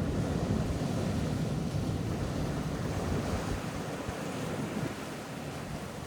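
Ocean waves washing onto a beach, the surf swelling loudest near the start and easing off toward the end, with wind rumbling on the microphone.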